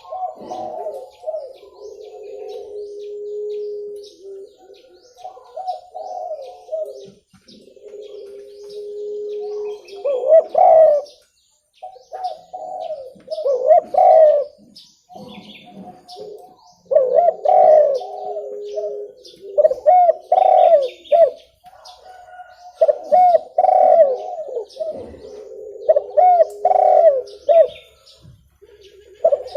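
Spotted dove cooing, repeated phrases of soft low coos that come in bursts with short pauses between them. Faint high chirping of small birds runs underneath.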